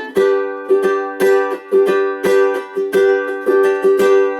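Ukulele strumming chords in a steady rhythm, about two strong strokes a second with lighter strokes between, in G major.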